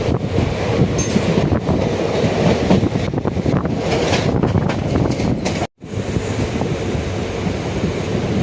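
Passenger train running along the track, heard from on board: a steady loud rumble of the wheels on the rails. The sound cuts out for an instant about two-thirds of the way through.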